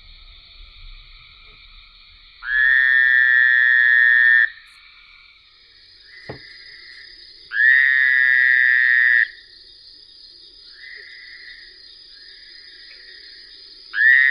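A frog giving three loud trilled calls of about two seconds each, over a faint steady chorus of other callers in the background.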